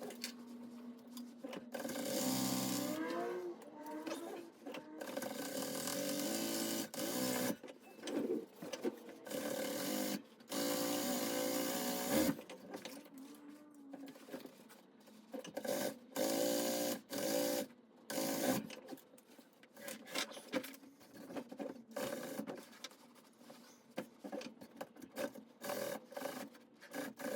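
Upholstery sewing machine stitching in runs of several seconds, its motor pitch rising as it speeds up, then shorter stop-start bursts in the second half.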